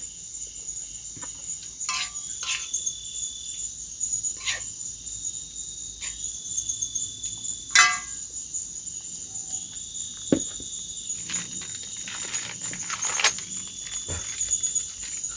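Steady high-pitched insect chorus, with a fainter trill coming and going lower down. A few sharp knocks or clicks break in now and then, the loudest about eight seconds in.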